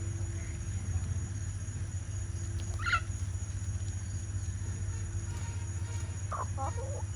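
Chickens calling over a steady low hum and insect drone: a short high squawk about three seconds in and a lower cluck near the end.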